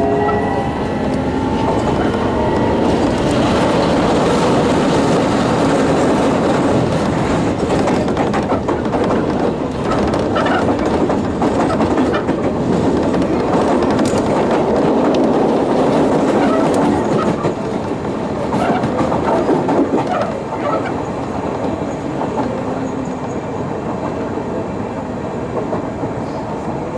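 Sotetsu New 7000 series electric train heard from inside its motor car, running slowly: steady wheel-and-rail rolling noise with clicks over the rail joints. The rising tones of its Hitachi GTO inverter fade out about two seconds in and come back faintly near the end.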